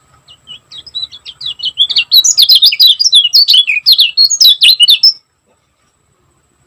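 A kecial kuning singing a fast, tightly packed run of sharp chirps. The song builds up over its first second or so and stops abruptly about five seconds in.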